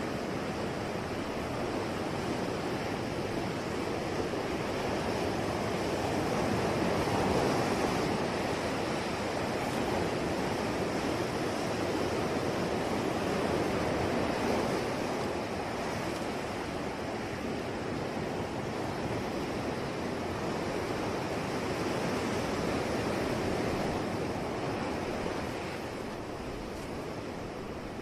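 Sea surf washing ashore in a continuous hiss, swelling and easing slowly, louder around a quarter and half of the way through and dropping a little near the end.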